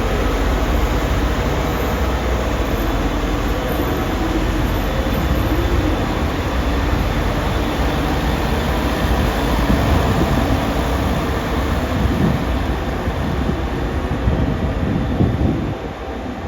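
KiroShi 47 diesel railcars of JR Kyushu's Aru Ressha train running, with a steady mix of diesel engine and rail noise. The sound dips briefly near the end.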